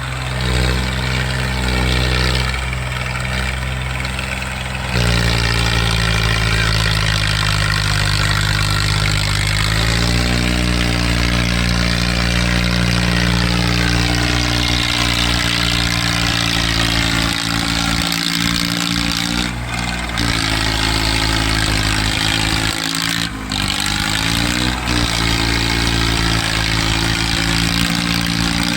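Swaraj tractors' diesel engines running hard under load in a tractor tug-of-war. The engine note steps up twice in the first ten seconds, then sags and recovers a few times near the end.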